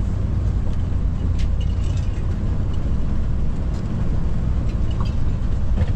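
Steady low rumble of a vehicle's engine and tyres while driving on the road, heard from inside the cab.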